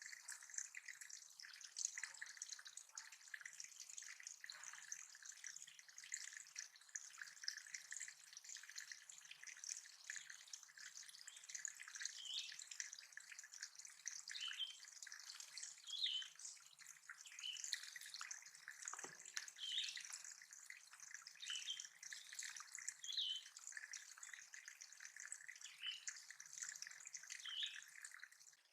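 Water dripping and trickling steadily into a small backyard bird pond, with short bird chirps heard now and then.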